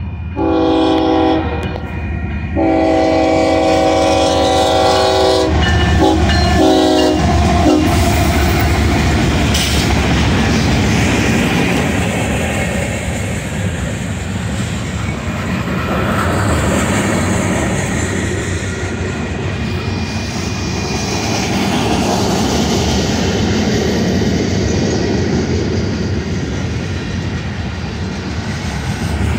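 Union Pacific freight locomotive sounding its multi-tone air horn for the grade crossing: two long blasts, then shorter ones, over the first eight seconds or so. Then the steady rumble and wheel clatter of freight cars rolling past.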